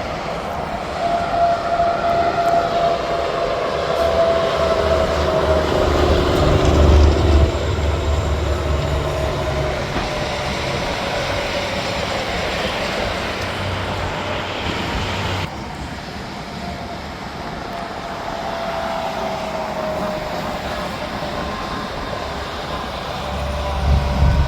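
Interstate traffic with semi trucks passing at highway speed: steady tyre roar and low engine drone. Tones slide slowly downward as vehicles go by, and the sound drops off suddenly about fifteen seconds in.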